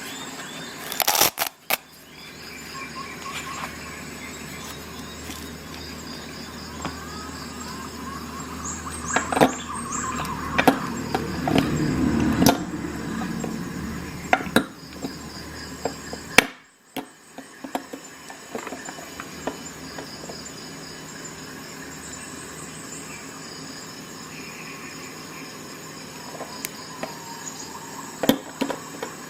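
Clicks and snaps of a Victorinox Swisschamp XLT Swiss Army knife being handled, its tools opened and closed, with a louder stretch of handling noise around the middle.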